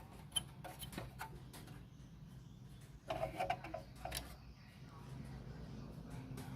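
Scattered light clicks and taps with a short flurry of knocks about three seconds in, over a low steady hum.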